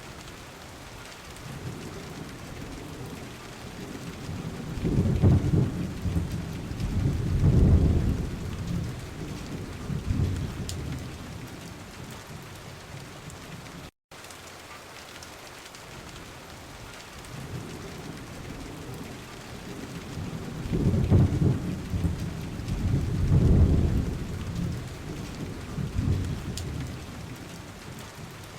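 Steady rain with two long rolls of thunder, each building to two loud low peaks and then fading. The sound drops out for a moment about halfway through.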